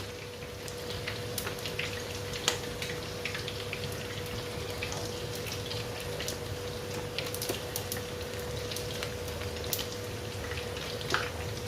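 Hot baked chicken in its tin sizzling and crackling faintly as sauce goes on, light scattered ticks over a steady low hum, with a sharper knock about two and a half seconds in and another near the end.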